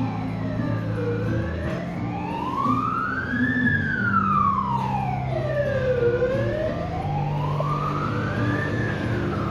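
Emergency vehicle siren in a slow wail, its pitch rising and falling in long sweeps that take about five seconds each, about two full cycles.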